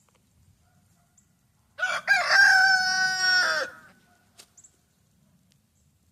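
A rooster crowing once, about two seconds in: a short opening note, then a long held note that drops in pitch at the end.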